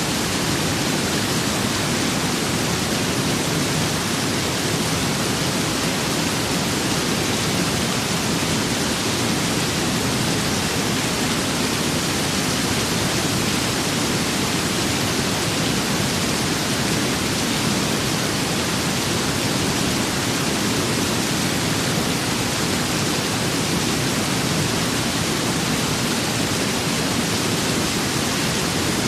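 Steady rain and wind blending into one even, unbroken hiss, with no separate drops or gusts standing out.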